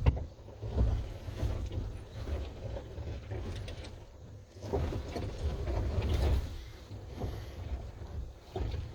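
Tesla Cybertruck crawling over rocks: a low rumble with irregular knocks and crunches from the tyres and suspension, and no engine note.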